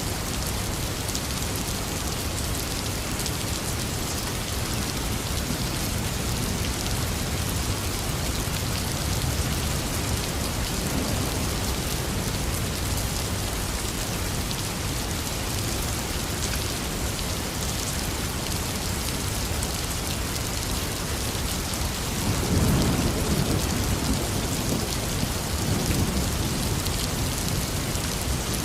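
Heavy rain falling steadily. About three-quarters of the way through, a low rolling rumble of thunder rises over it and goes on for several seconds.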